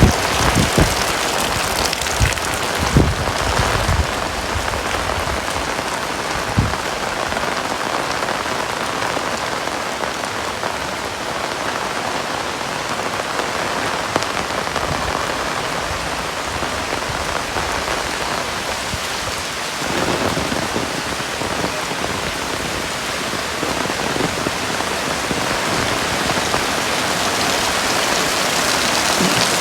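Heavy rain falling steadily in a dense, even hiss. A few short low thumps come in the first few seconds.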